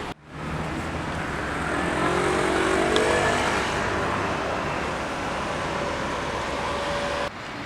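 Street traffic noise, with a motor vehicle's engine rising in pitch as it accelerates past. The sound breaks off abruptly near the end.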